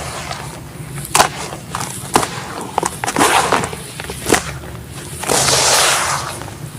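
Chunks of black sand cement crumbling and breaking, giving several sharp cracks and a longer gritty crumble about five seconds in.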